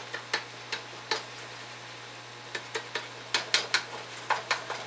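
A cooking utensil clacking and scraping against a pan as ground beef is broken up while it browns, in irregular quick strokes: a few at first, a short pause, then a busier run in the second half.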